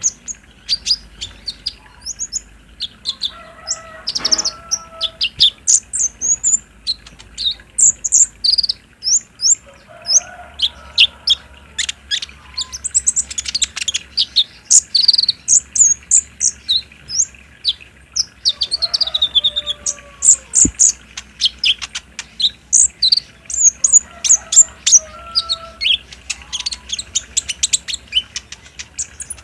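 Kolibri ninja (konin) sunbird song: rapid, high-pitched chirping and twittering, note after note without pause. This is a lure recording meant to set other konin singing. A few lower whistled notes are mixed in, one gliding down about 19 seconds in.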